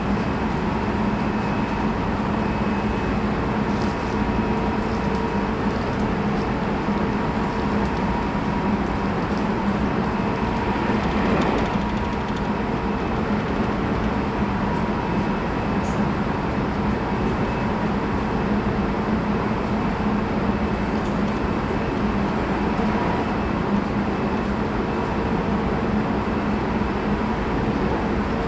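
Running sound inside a Tobu 20400 series electric train's motor car at steady speed between stations: continuous wheel-on-rail noise with a steady hum of several level tones.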